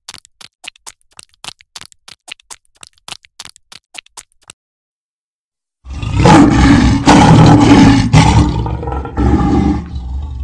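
Faint scattered clicks for the first half, then a lioness growling loudly in a few long bouts from about six seconds in.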